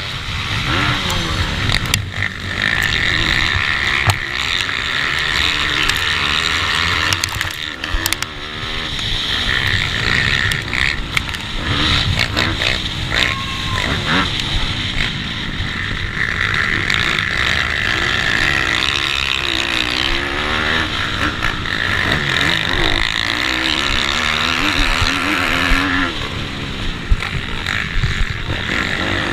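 Small single-cylinder four-stroke pitbike engines racing: a Bucci F15 with a 160cc GPcube engine among 190cc Daytona-engined bikes, their revs repeatedly rising and falling through the gears.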